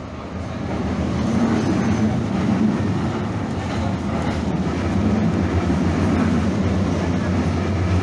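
Calgary CTrain light rail car running, heard from inside the car: a steady low rumble that grows over the first second or two and then holds.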